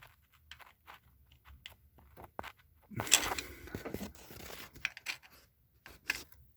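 Hands working on metal engine parts: scattered small clicks and knocks, with about a second and a half of rubbing and scraping starting about three seconds in.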